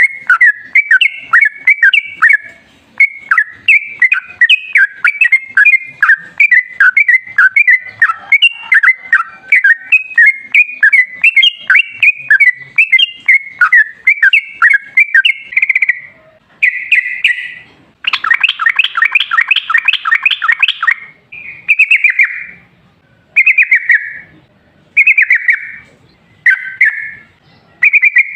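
Yellow-vented bulbul (trucukan) singing: long, unbroken runs of quick bubbling chirps. About halfway through, the song breaks into short phrases, with a dense rapid burst of falling notes and then brief phrases spaced a second or so apart.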